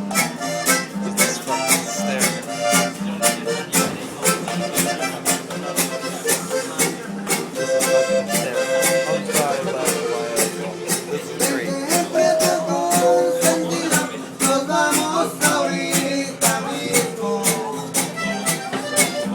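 Accordion and strummed guitar playing a lively Mexican tune, the strumming keeping a steady beat of about three strokes a second, with the accordion's melody coming forward about halfway through.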